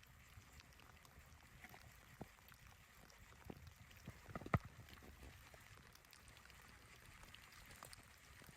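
Near silence: faint background hiss with scattered small clicks and one sharper tap about four and a half seconds in.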